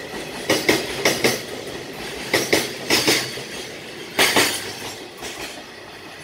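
A freight train's container flat wagons passing at speed, their wheels clattering over the rail joints in pairs of sharp clicks, bogie after bogie. The last pair comes about four seconds in, then the rolling noise fades as the train moves away.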